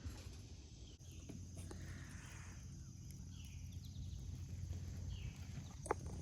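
Outdoor ambience: a steady low rumble with a few faint, short bird chirps, and a single sharp click near the end.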